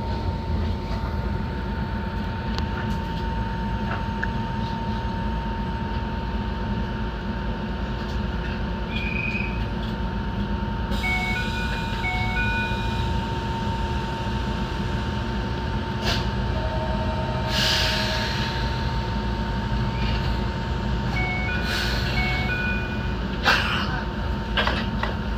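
Enoden electric train running along the line, with a continuous low rumble and a steady whine. Level-crossing bells ring in short repeated tones, once around the middle and again near the end, and a few sharp knocks come from the wheels on the track in the second half.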